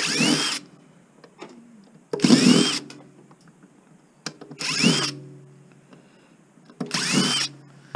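Cordless drill run in four short bursts, each spinning up in pitch and stopping after about half a second, as screws are backed out of a blender's base to take it apart for scrap.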